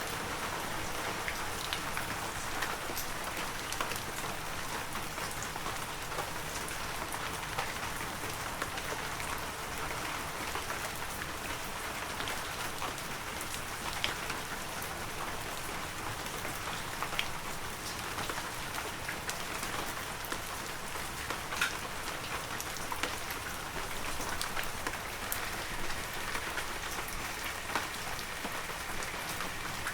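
Heavy rain falling steadily, a constant hiss with the sharp taps of individual drops striking close by.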